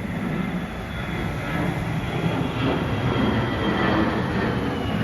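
Wind buffeting the microphone: a steady, uneven low rumble and rush.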